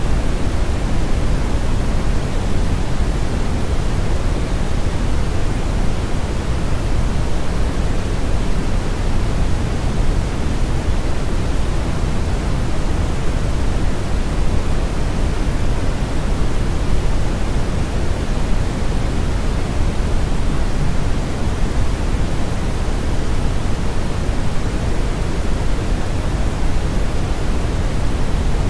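Brown noise: a steady, even rushing hiss with most of its energy in the deep low end, the highs rolled off, unchanging throughout.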